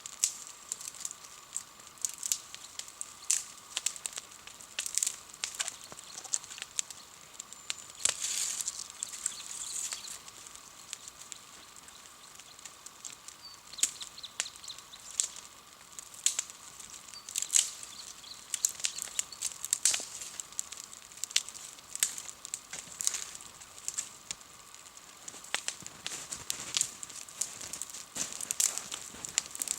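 Wood campfire crackling, with irregular sharp pops from the burning wood.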